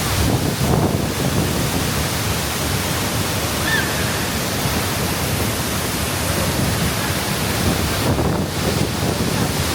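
Waterfall roaring, a loud steady rush of falling water.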